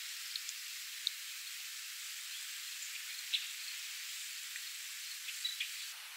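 Soft spring rain falling on a pond: a steady gentle hiss with a few scattered sharper ticks of single drops. The hiss changes in character near the end.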